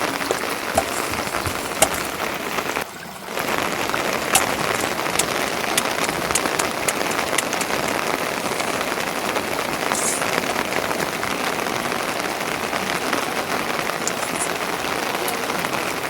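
Steady rain falling, with scattered sharper ticks of individual drops. It drops away briefly about three seconds in.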